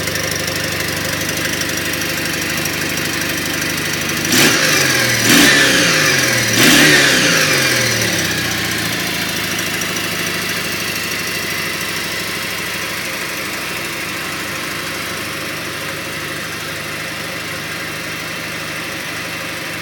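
Kawasaki W800 Final Edition's air-cooled parallel-twin engine idling, blipped three times in quick succession about four to seven seconds in, each rev rising and dropping back, then settling to a steady idle.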